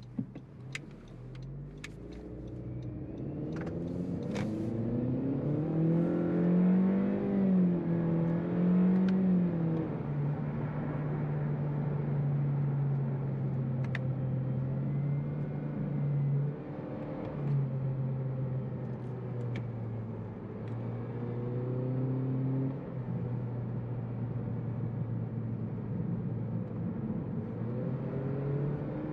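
2021 Honda Civic Sport's 1.5-litre turbocharged four-cylinder engine heard from inside the cabin, its note rising as the car pulls up to speed over the first several seconds, then holding steady at cruise with a couple of brief dips as the throttle eases, over tyre and road noise. A few sharp clicks sound in the first few seconds.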